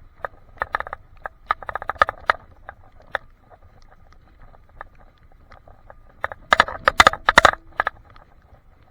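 Irregular clusters of rattling clicks picked up by a handlebar-mounted action camera in a waterproof case, with the loudest cluster about six and a half to seven and a half seconds in. The cause of the rattle is unknown.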